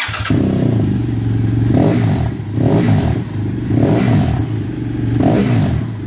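2013 BMW F800GS parallel-twin engine starting up and running through a LeoVince exhaust with its silencer insert removed. The engine catches at once and then idles, its speed rising and falling a little several times.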